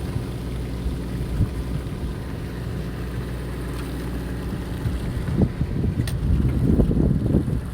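Fishing boat's engine running with a steady low hum, with wind buffeting the microphone in rough gusts that get stronger over the last couple of seconds.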